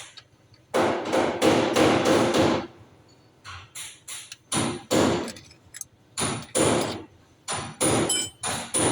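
Hammer blows: a quick run of about six strikes, then slower, irregular single strikes, some with a brief ringing.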